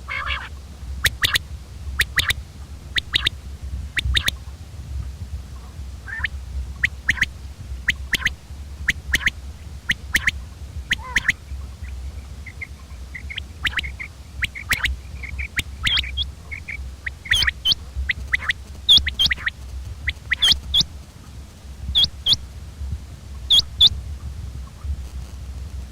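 Common quail calling: short, sharp notes repeated about once a second, some in quick groups of two or three, over a steady low hum.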